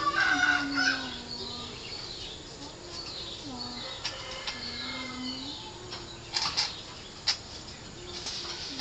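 Caged green leafbirds (cucak ijo) calling with quick chirps, loudest in the first second, with brief wing-flutter rattles about six and seven seconds in.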